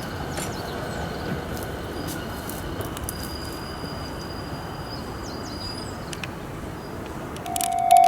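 Steady outdoor rumble with a thin high bird call in the middle; near the end a Japanese railway level-crossing warning bell starts ringing, a single steady tone pulsing about twice a second, the signal that a train is approaching.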